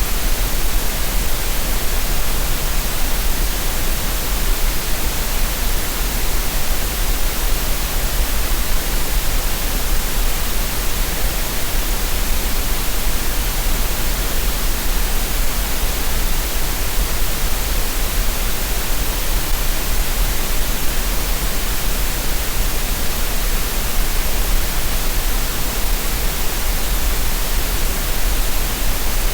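Generated green noise: a steady, unchanging hiss across the whole range with a low rumble underneath, used for relaxation and tinnitus masking.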